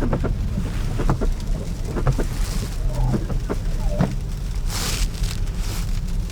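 Road noise inside a car cabin driving on a snow-packed road: a steady low rumble from the tyres, with irregular light ticks and a brief hiss about five seconds in.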